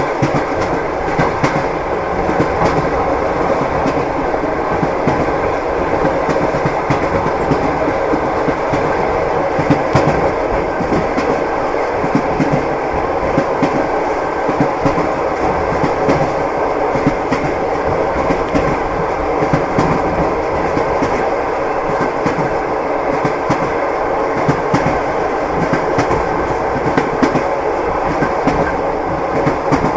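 Train wheels clattering over rail joints, heard from inside a passenger compartment: a steady rumble with a constant run of sharp clicks.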